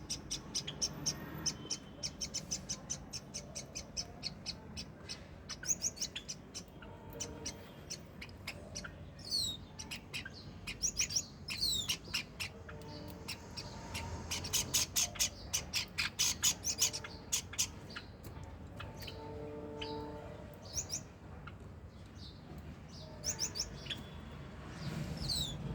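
Small pet parrots chirping and chattering in rapid runs of high chirps, with a few sharp falling whistles.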